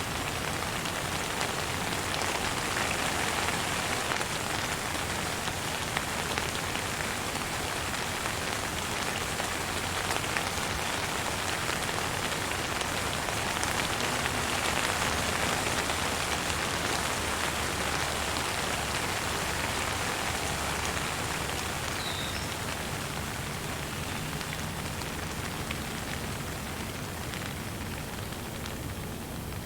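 Steady rain falling, a dense even patter of drops. A bird gives one faint, brief chirp about three quarters of the way through.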